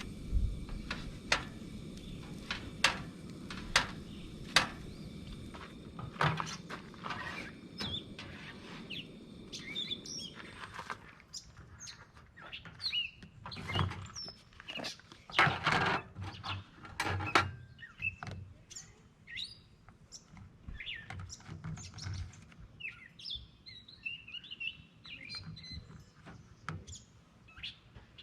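Small birds chirping, with short rising and falling calls from about a third of the way in. Before that, a run of sharp ticks a little under a second apart over a low rumble, and a few louder knocks in the middle.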